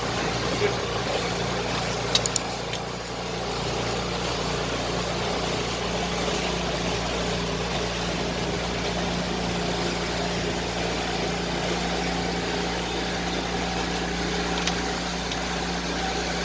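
Motorboat engine running at a steady speed, a constant hum with noise from water and wind, and a couple of brief clicks.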